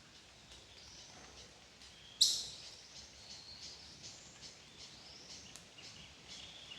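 Wild birds calling: scattered high, thin whistles and chirps, with one loud, sharp call about two seconds in.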